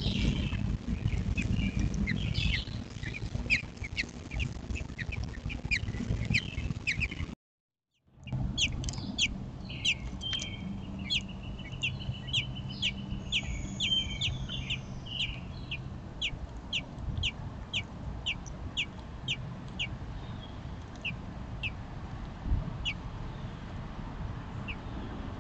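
American robin nestlings begging: rapid, high, thin peeps, several a second, over a steady low rumble. The sound drops out briefly about seven seconds in, then the peeping resumes.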